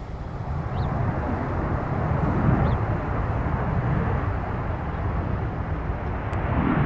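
Jet aircraft engine noise, a deep steady rumble that swells over the first couple of seconds and then holds.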